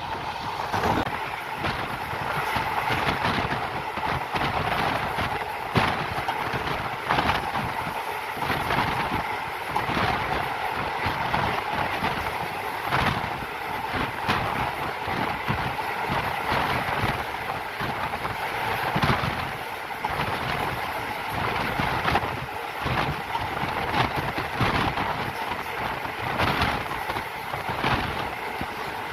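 Moving passenger train heard from on board: a steady rumble of the running coach with frequent sharp clacks of the wheels passing over rail joints.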